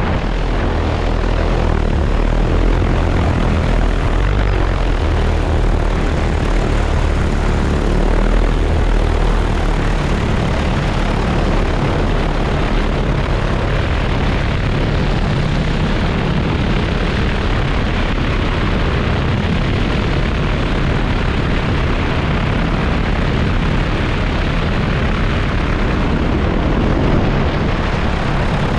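Large multirotor agricultural spray drone's propellers running steadily, a loud, even drone that holds level throughout.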